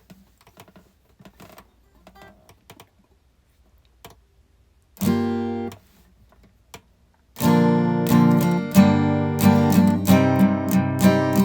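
Faint scattered clicks, then a single strummed acoustic guitar chord about five seconds in. From about seven seconds on, an acoustic guitar is strummed steadily.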